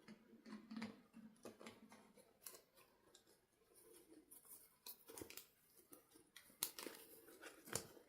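Faint, irregular clicks and rustles of small plastic toy parts and packaging being handled, with a couple of sharper snaps near the end.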